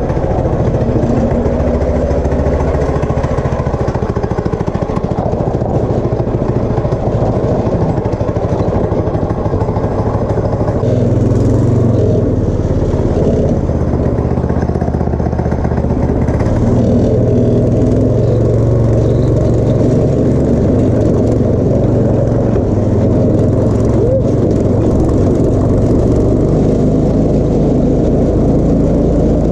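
Go-kart engine running during a ride, heard from the driver's seat. Its pitch rises and drops several times with the throttle.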